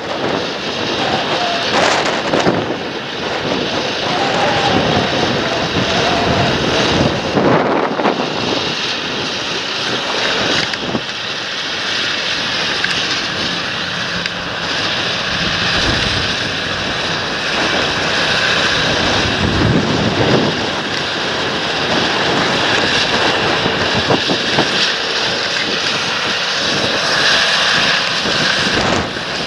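Large John Deere tractor engine working steadily under load in the field, with wind buffeting the microphone.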